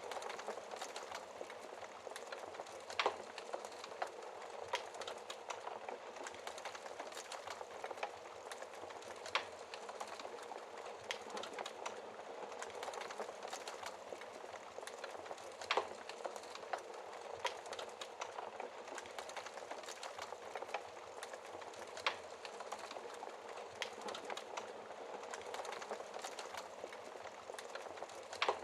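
Wood fire burning in a fireplace: a steady hiss of flames with many small crackles and a few louder, sharp pops.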